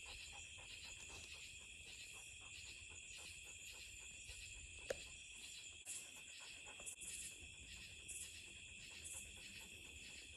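Steady chorus of night insects, high-pitched and softly pulsing, with a low rumble underneath and a single sharp click about five seconds in.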